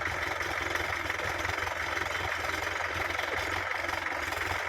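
Heavy vehicle's diesel engine running steadily with a low rumble.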